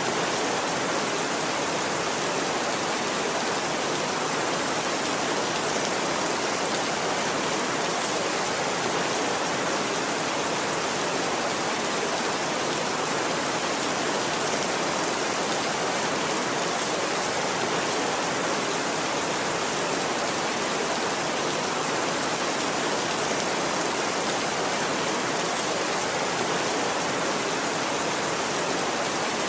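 Steady, even rain with no breaks and no thunder.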